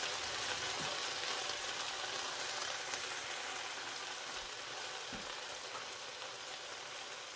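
Stir-fried vegetables sizzling in a hot frying pan, left uncovered to cool after cooking: a steady, faint hiss that slowly dies down.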